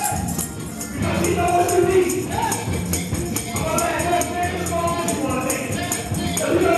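Gospel praise-break music: a tambourine jingling on a steady fast beat under a choir singing.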